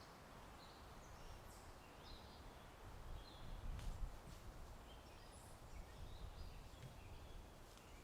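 Faint birdsong, short high chirps scattered throughout, over a low wind rumble that swells about halfway through, with a few soft clicks.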